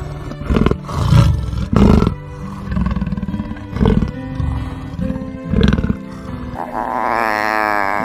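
Leopard calling: a series of separate rasping roar-grunts over background music. Near the end comes a long wavering, pitched animal call.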